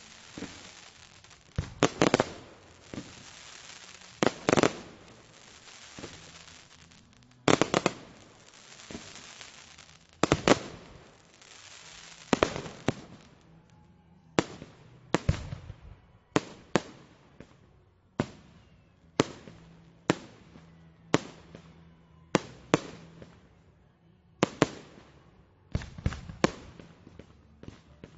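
Fireworks going off in a steady series of sharp bangs, about one every one to two seconds, the earlier ones followed by a lingering noisy tail as they die away.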